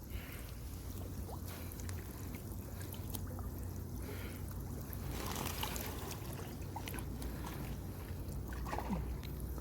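Water trickling and splashing as a fishing net is hauled in with fish caught in it. A low steady rumble runs underneath, with a brief louder splashy stretch about halfway through.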